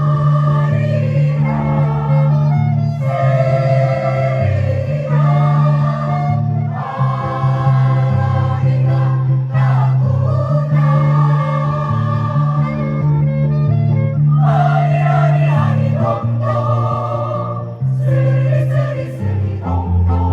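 A choir singing a song, backed by instrumental accompaniment with a held bass line.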